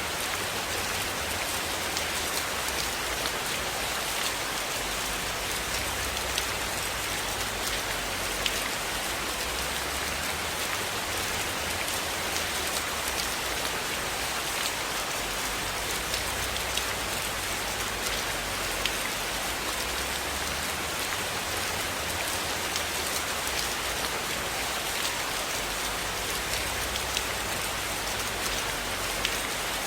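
Steady rain falling on a roof, a constant hiss with scattered sharp drop ticks.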